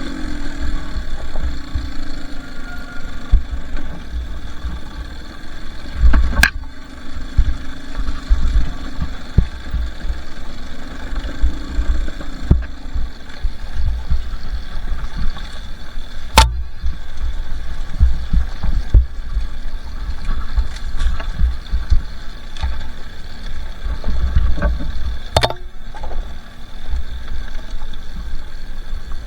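Two-stroke dirt bike engine running at low trail speed, under heavy low thumping on the microphone. Three sharp knocks, at about 6, 16 and 25 seconds in.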